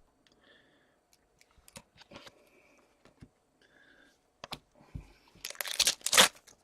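Hockey trading cards being handled: scattered light clicks and taps, then about five and a half seconds in a louder stretch of rustling and crinkling as the cards and their pack wrappers are worked through.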